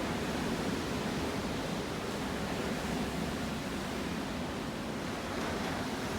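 Black Sea surf washing steadily onto the shore, an even rushing sound with no single wave standing out.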